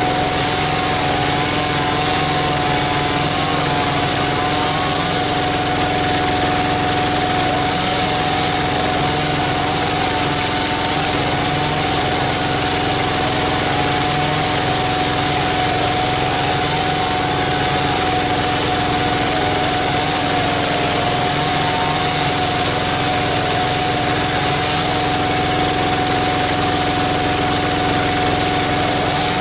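Walking tractor's single-cylinder diesel engine running steadily at a constant speed while driving a screw log splitter, with a steady high tone running through it.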